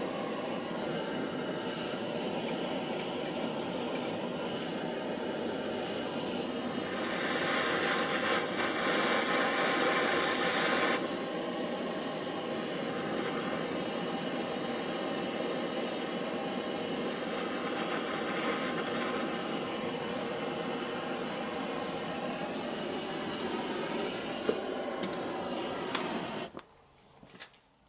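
Gas blowtorch burning with a steady hissing roar while heating copper pipe and fittings for soldering. It gets louder and brighter for a few seconds about a third of the way in, and the sound stops abruptly near the end.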